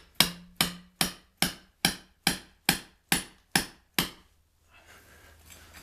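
A hammer striking brick masonry in a steady run of about ten blows, roughly two and a half a second, to break open a bricked-up chimney flue. The blows stop about four seconds in.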